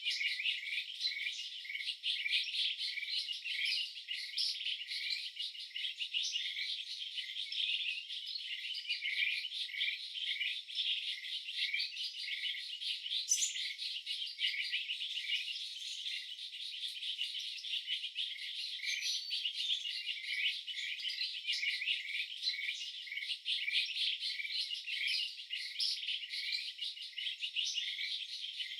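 A dense, continuous chorus of short, high chirps repeated rapidly, from calling wildlife such as insects or birds.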